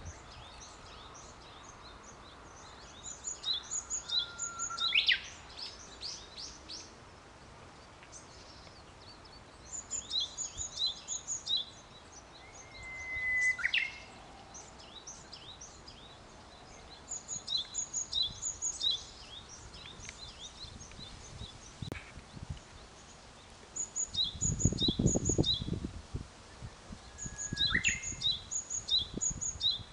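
Small songbirds singing: phrases of rapid, high-pitched notes repeat every few seconds, with a few lower whistled notes in between. A low rumble comes about 24 seconds in and lasts about two seconds.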